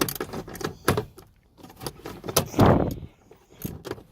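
Metal hand tools and sockets clicking and knocking, then one louder scrape a little before three seconds in.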